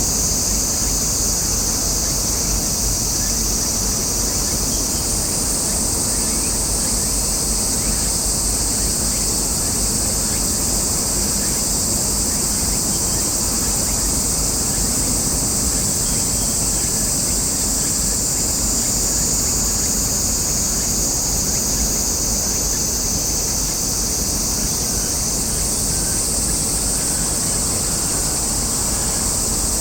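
Steady chorus of cicadas, a loud high buzz that shifts slightly in pitch now and then, over a steady low rumble.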